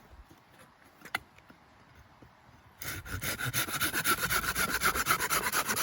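A fast run of rasping scrapes, a knife blade scraping along wood, starting about three seconds in after a single click.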